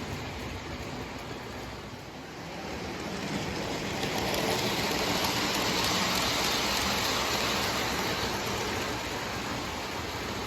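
Lionel O gauge toy train running on three-rail track: a steady rolling rumble and rattle that swells about three seconds in, as if passing close, and eases off near the end.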